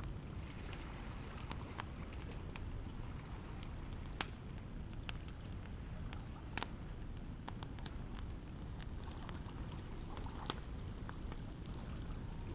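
Campfire crackling: a steady low rumble dotted with irregular sharp snaps, three of them louder pops.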